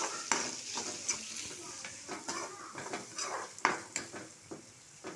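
Chopped onions sizzling in hot oil with the tempering of mustard seeds, dal and curry leaves, while a spatula stirs them round the pan with irregular scrapes and taps, the sharpest about three and a half seconds in.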